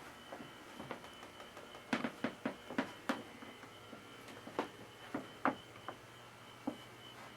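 A series of irregular light clicks and knocks, bunched in two clusters, over a steady low hum and a faint high whine.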